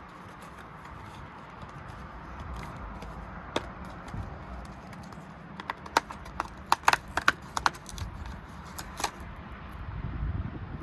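Small hard plastic pieces clicking and tapping as they are handled, typical of a Kinder Surprise capsule and its toy parts. One click comes early, then a quick run of clicks and taps in the middle, over a low rumbling handling noise.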